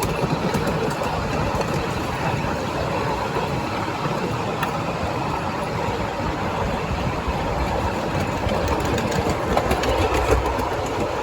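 Train running steadily along the track, heard from on board: a continuous rumble of wheels and running gear with faint, irregular clicks.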